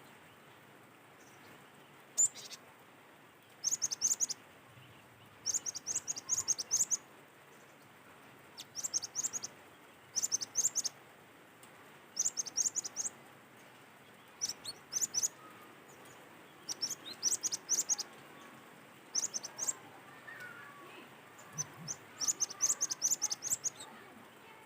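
Cinereous tit (gelatik batu) singing. It gives short bursts of rapid, high, clipped notes, repeated about every one and a half to two seconds.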